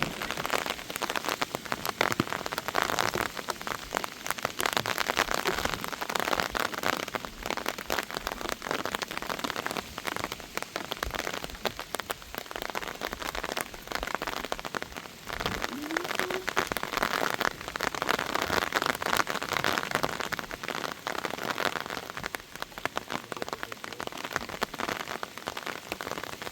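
Heavy rain falling, a dense hiss made of many separate sharp drop strikes, swelling and easing.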